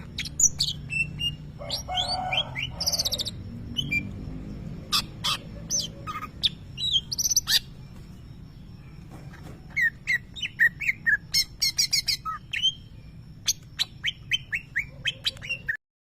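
Greater green leafbird (cucak ijo) singing a rapid string of short, sharp chirps and falling call notes, a song that imitates lovebird calls. It cuts off suddenly near the end.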